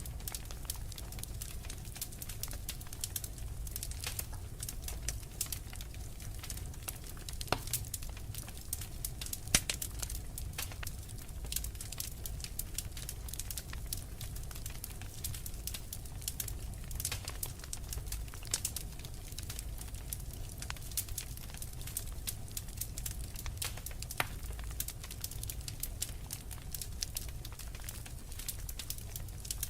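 Wood fire crackling, with frequent small sharp pops and a few louder snaps, over a steady low rumble.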